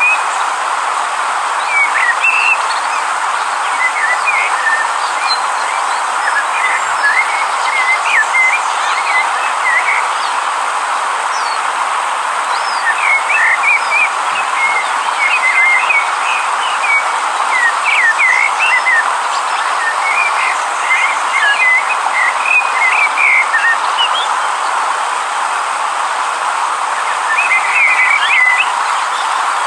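Steady rush of a flowing river, with birds chirping over it in short, repeated twittering phrases that come in bunches, busiest around the middle and near the end.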